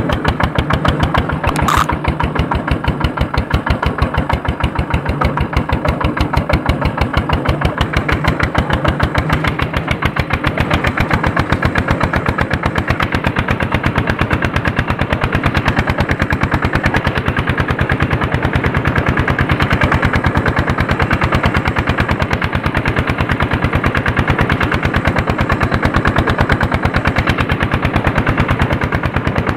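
Andoria 1HC102 single-cylinder diesel engine running steadily under load while the tractor pulls a harrow, with a rapid, even chugging beat of single exhaust pulses. A short sharp click sounds about two seconds in.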